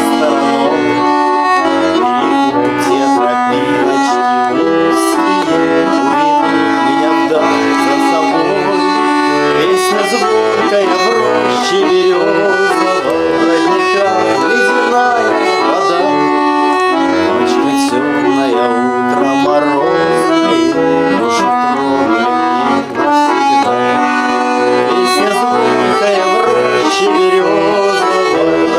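Russian garmon (button accordion) playing an instrumental passage of a folk-style song, a continuous run of melody and held chords.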